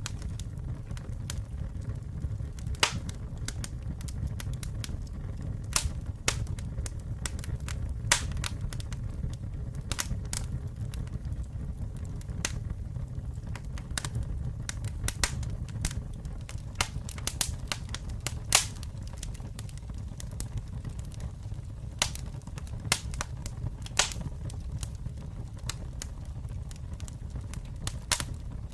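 Campfire burning: a steady low rumble of flames with frequent irregular sharp crackles and pops from the burning wood, a few of them louder snaps.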